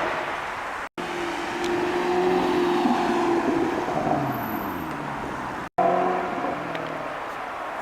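Supercar engines and exhausts running on the street, the engine note rising and falling as the cars rev and accelerate past. The sound breaks off abruptly twice, about one second in and near six seconds, where one clip cuts to the next.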